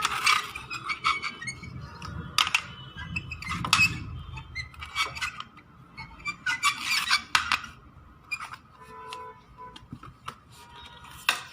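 Irregular clicks, knocks and clatter of plastic parts being handled, as the robot mop's water tank is filled and fitted.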